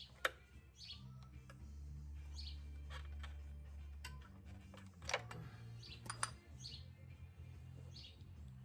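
Faint bird chirps, short calls repeating every second or so, over low background music from a radio. A few sharp clicks from tools being handled, the loudest just after the start.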